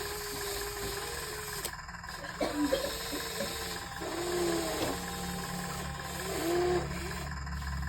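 Small electric motors of a radio-controlled excavator whining, their pitch rising and falling in smooth sweeps as the machine works, over a steady low hum that strengthens about halfway in.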